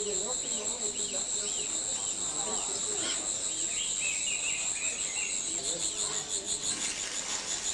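Dense, shrill, pulsing chirring of many caged crickets on sale, with short high bird chirps over it through the first five seconds or so.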